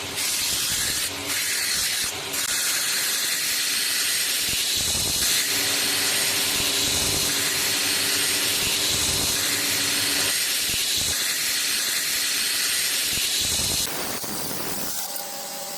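Abrasive rust removal on the cleaver's steel: a steady hiss with a faint high whine. About fourteen seconds in, it cuts off and a quieter sound follows.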